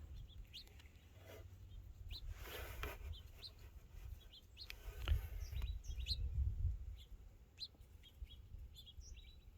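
Small songbirds chirping: many short, high chirps scattered throughout, over a low rumble, with a brief rustling noise about two seconds in.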